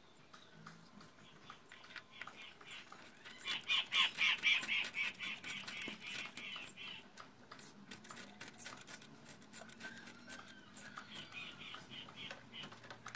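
A bird's rapid chattering call, a quick run of high notes from about three to seven seconds in and again more faintly near the end, over light clicks and taps of hands handling small metal engine parts.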